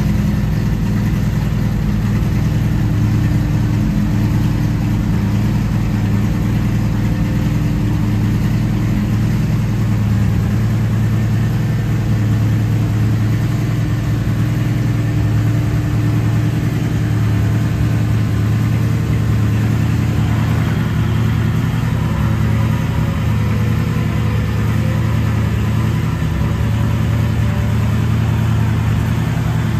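1957 Ford Fairlane Skyliner's engine idling steadily while its retractable hardtop cycles. From about twenty seconds in, a fainter wavering whine joins it as the roof lifts out of the trunk.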